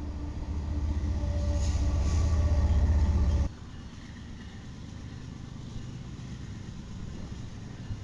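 BNSF diesel freight locomotives passing close by, their heavy low rumble growing louder until it cuts off abruptly about three and a half seconds in. A quieter, steady rumble from another approaching BNSF locomotive follows.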